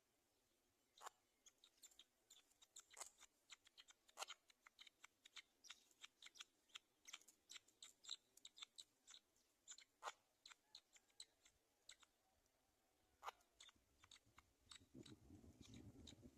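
Black-winged kite tearing meat with its beak: faint, irregular sharp clicks and snips, several a second, like snipping scissors. A low rumble comes in near the end.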